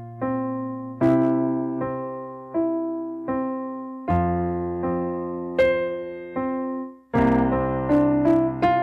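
Background music: a slow electric piano playing sustained chords, each struck and left to fade before the next.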